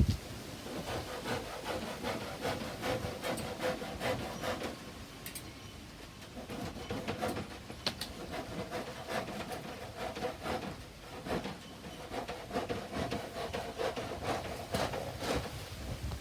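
Hand saw cutting through a wooden board: rhythmic back-and-forth strokes that pause briefly about five seconds in, then carry on.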